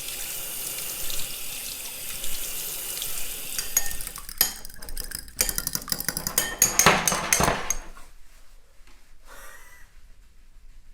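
Tap water running into a kitchen sink, followed by a few seconds of sharp clinks and knocks of dishes and utensils.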